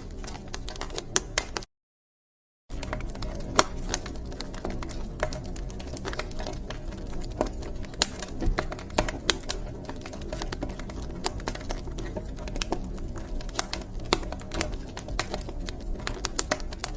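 Wood fire crackling in a fireplace: irregular sharp pops and snaps over a low, steady rumble, cut by about a second of dead silence two seconds in.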